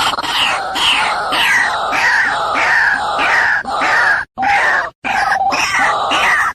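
White-breasted waterhen calling: a harsh series of repeated notes, about two a second, each falling in pitch. The sound cuts out abruptly twice, briefly, past the middle.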